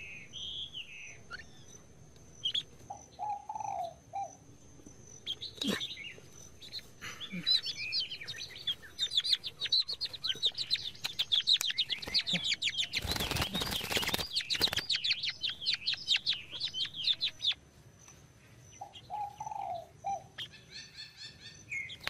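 A small trapped bird chirping, its high calls coming faster and denser as it is lifted out of the pit and held in the hand, with a loud flutter of wings lasting about two seconds in the middle.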